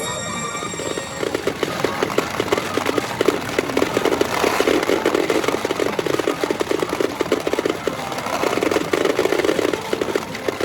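Pachinko balls clattering in a dense, rapid rattle of small metal clicks, the din of a pachinko machine and hall.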